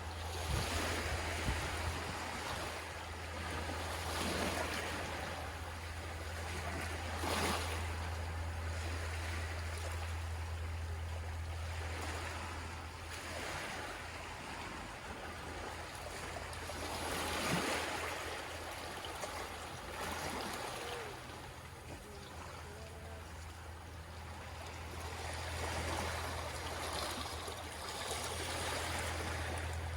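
Gentle sea waves washing in, each swell rising and falling away every few seconds, over a steady low rumble.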